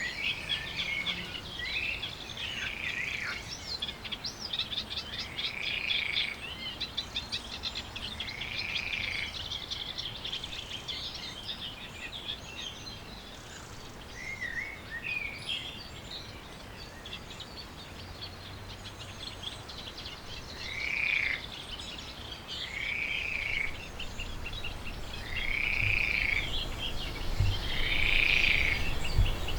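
Birds calling around a pond: a short arched note repeated every couple of seconds, with fast trilled song in the first half.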